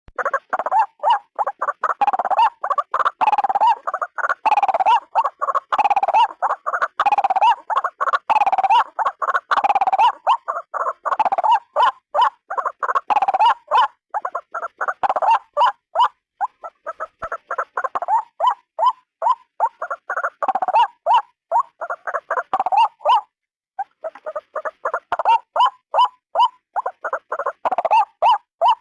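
White-breasted waterhen (ruak-ruak) calling: a fast, continuous string of short repeated notes, several a second, broken by one brief pause about 23 seconds in.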